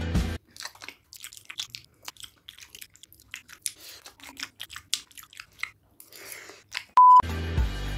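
Close-up mouth sounds of someone chewing a mouthful of Maggi instant noodles with egg: a quiet run of irregular wet clicks and soft crunches. Near the end, a short, loud electronic beep cuts in.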